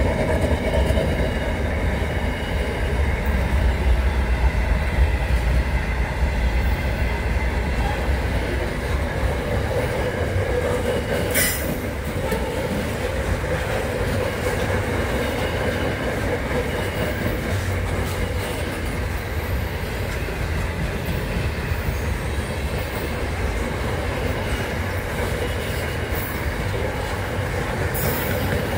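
A train rolling steadily past: continuous rumble of wheels on the rails, with a faint high wheel squeal running through it and a single sharp click about eleven seconds in.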